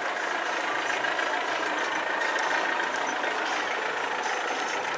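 Steady running noise of road vehicles' engines, with a faint, even high tone over it.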